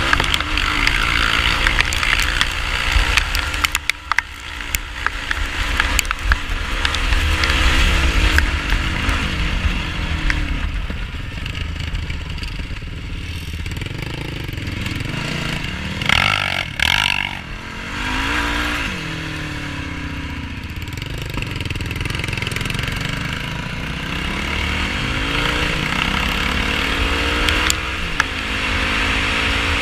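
Yamaha YFZ450R quad's single-cylinder four-stroke engine revving up and down repeatedly while riding off-road, with a constant low rumble of wind on the microphone.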